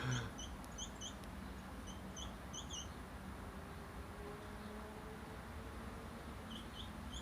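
A sparrow chirping faintly: a quick run of short, high cheeps for about the first three seconds, then a few more near the end. A brief low thump comes right at the start.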